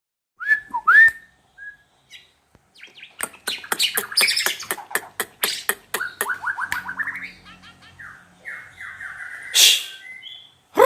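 White-rumped shama singing a fast, varied song of whistled notes, rapid clicking strokes and rising trills, packed with mimicked calls of other wild animals. It starts about half a second in.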